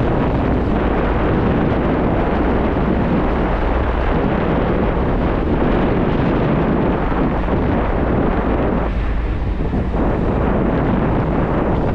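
Wind buffeting the microphone of a moving motorcycle, a loud steady rush with a deep rumble from the ride beneath it. The rush eases briefly about nine seconds in.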